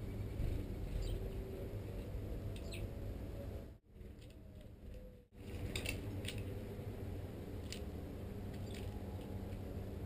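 Small songbirds at a feeder giving short, high chirps every second or so, over a steady low rumble. The sound drops away for about a second and a half near the middle.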